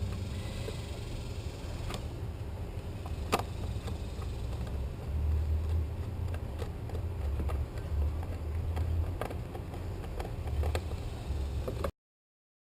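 Low, uneven rumble with a few faint clicks and taps, consistent with hands working wires in an outlet box. The sound cuts off abruptly to silence near the end.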